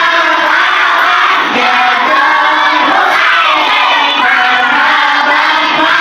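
A large group of children singing sholawat, Islamic devotional songs praising the Prophet, loudly and together as a crowd.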